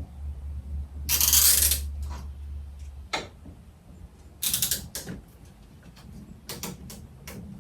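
Clicking, ratcheting and scraping of the animatronic clown prop's mechanism and plastic parts being worked on. A loud scrape comes about a second in, and a steady low hum cuts off about three seconds in. Sharp clicks and rattles follow near the middle and toward the end.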